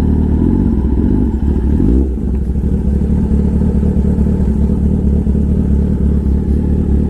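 Kawasaki ZX-10R's inline-four running at low revs through its SC-Project exhaust. The engine note shifts briefly about two seconds in, then settles back to a steady beat.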